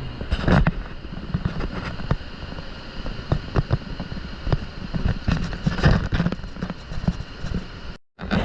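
Passenger train in motion: a steady low rumble with irregular clattering and knocking. The sound cuts out briefly near the end.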